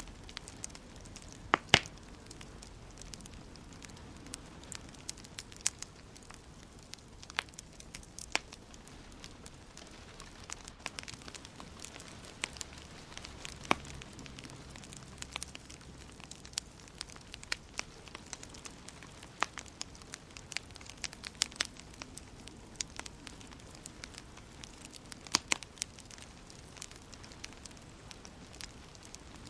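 Wood fire in a fireplace crackling: irregular sharp pops and snaps over a soft steady hiss, with the loudest pair of pops about two seconds in.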